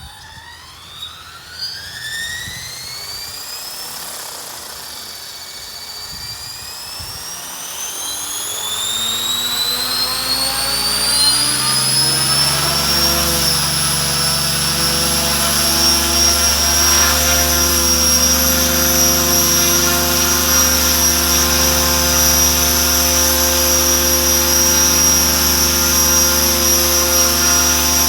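Mikado Logo 600 electric RC helicopter spooling up: a motor and gear whine rises steadily in pitch and loudness for about twelve seconds, then settles into a steady whine with the rotor hum as the rotor reaches full speed.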